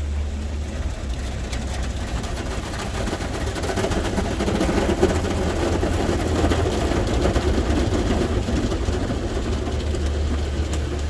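Automatic car wash heard from inside the car's cabin: a steady low hum, with the wash's water and equipment working over the car, growing louder from about four seconds in and easing near the end.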